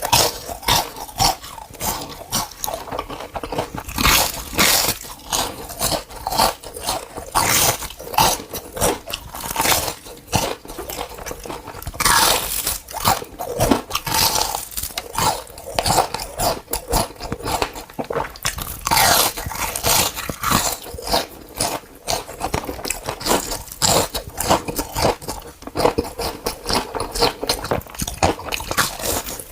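Close-miked eating of crunchy food: repeated bites and chewing, with many sharp crackles in quick, irregular succession.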